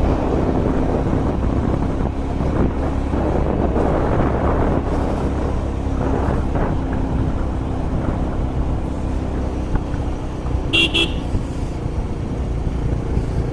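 Steady rumble of a moving vehicle and wind on the road, with a short double toot of a vehicle horn about eleven seconds in.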